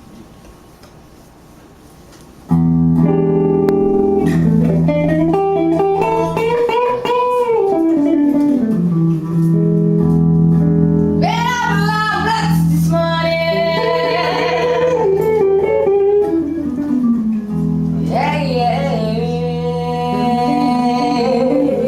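A quiet pause, then about two and a half seconds in a band starts a loud, guitar-led song, with a melody line gliding over held chords.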